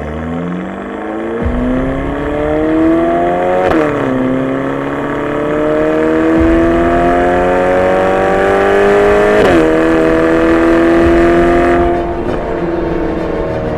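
Ferrari Portofino's twin-turbo V8 pulling under acceleration, its note rising, with a sudden drop in pitch about four seconds in and again near ten seconds as the gearbox shifts up. Near the end the note holds and eases off a little quieter.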